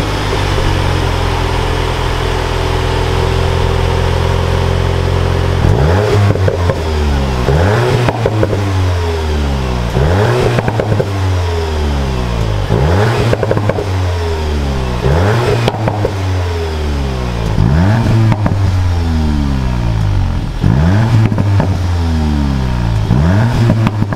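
Volkswagen Golf GTI Clubsport's turbocharged 2.0-litre four-cylinder idling steadily. About six seconds in it begins revving: about eight short blips, roughly every two and a half seconds, each climbing fast and falling back to idle.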